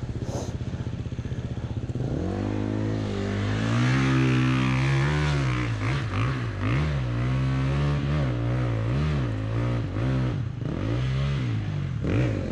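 Dirt bike engine running at low revs, then revved up about two seconds in, its pitch rising and falling again and again as the throttle is worked on and off.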